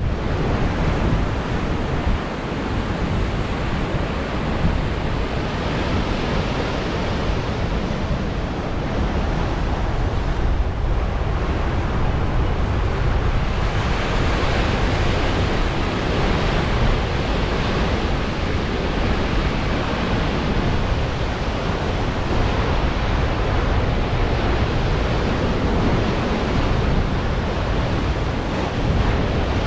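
Ocean surf breaking and washing in a steady rush that swells and eases, with wind buffeting the microphone.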